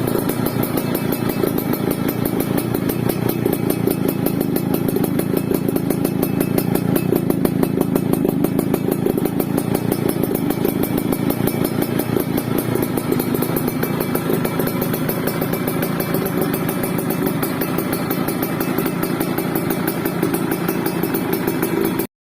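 Yamaha F1ZR two-stroke single-cylinder motorcycle engine idling steadily through its exhaust, with a rapid even firing beat. It cuts off suddenly near the end.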